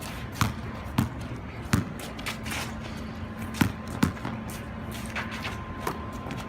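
A basketball bouncing on a wet outdoor court, several irregular thuds with a gap in the middle, over a steady hiss of rain.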